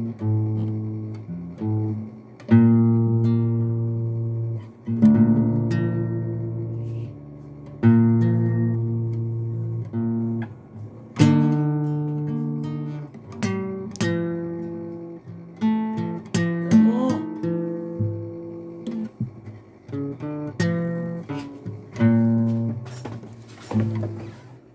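Acoustic guitar playing slow chords, each one struck and left to ring out and fade before the next.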